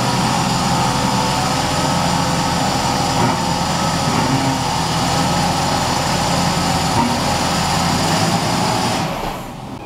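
Mercedes-Benz W124 wagon's engine running steadily at idle as the car creeps forward into a parking space. The sound drops away sharply near the end.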